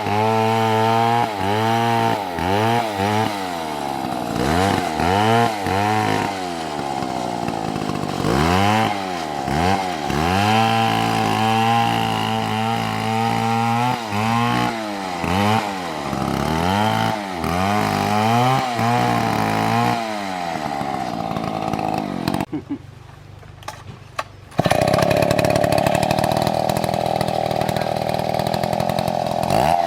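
Chainsaw cutting into a tree, its engine revving up and down over and over. About three-quarters of the way through it suddenly drops away for a couple of seconds, then comes back running steadily at high speed.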